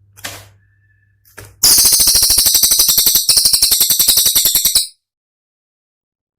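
Cililin songbird giving a loud, very rapid rattling trill of about twenty high notes a second for roughly three seconds, which then stops abruptly. A couple of faint clicks and a short thin whistle come just before it.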